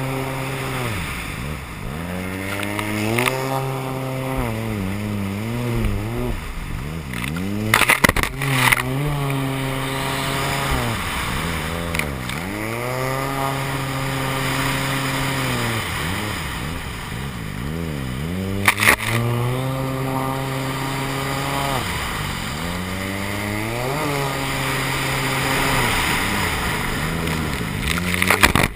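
Jet ski engine revving up and easing off again and again as it is ridden, with a few short sharp knocks along the way.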